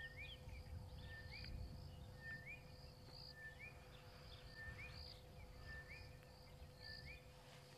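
Faint bird call repeating about once a second, each a short even whistle followed by a quick upward note, over a low steady hum.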